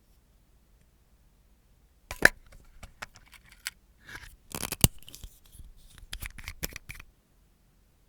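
Handheld nail-care tools at work: a run of short snips, clicks and scrapes starting about two seconds in, with two sharp, loud snaps among them, stopping about a second before the end.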